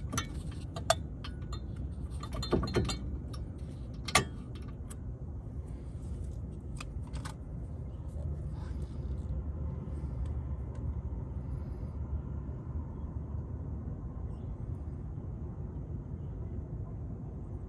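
A run of sharp metallic clinks and knocks, the loudest about one, two and a half and four seconds in, fading out after about seven seconds. A steady low hum runs underneath.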